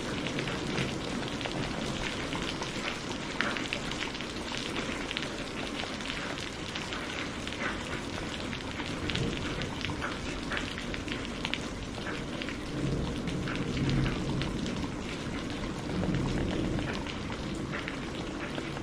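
Steady rain falling, with individual drops pattering through the hiss; about two-thirds of the way in, and again shortly after, a low rumble of distant thunder swells under it.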